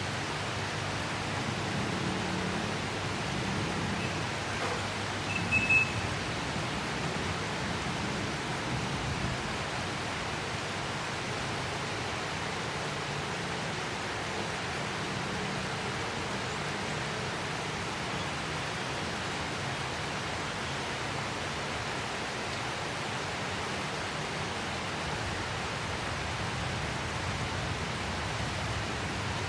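Steady rain falling, a continuous even hiss, with one brief high-pitched chirp about six seconds in.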